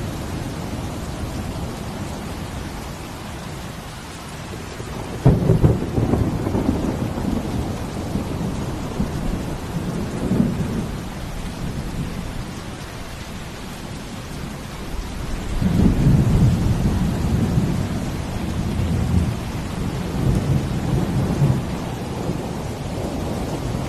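Steady hiss of falling rain, with deep rolling rumbles over it: one breaks in suddenly about five seconds in, another swells up around sixteen seconds in and trails off slowly.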